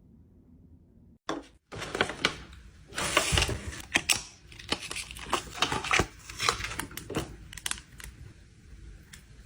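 Beauty-product packaging being handled and opened by hand: a quick, irregular run of taps, clicks and crinkles of paper and plastic, starting about a second in.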